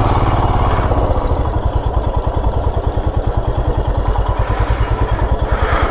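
A Royal Enfield motorcycle engine drops to an even idle as the bike rolls to a stop, with a steady, regular beat.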